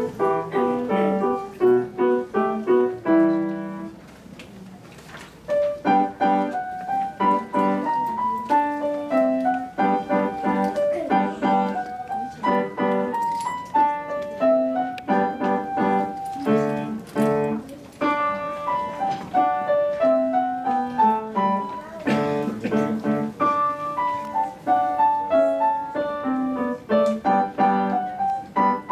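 Solo piano playing a lively piece of quick notes. The playing drops to a soft held moment about four seconds in, then picks up again.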